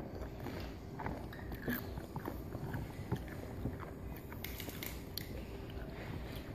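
A person chewing nachos, with a scatter of short crunchy clicks from the tortilla chips, more of them together about four and a half to five seconds in.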